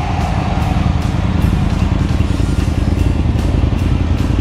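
Harley-Davidson V-twin motorcycle engine running, a steady, rapid, lumpy rumble.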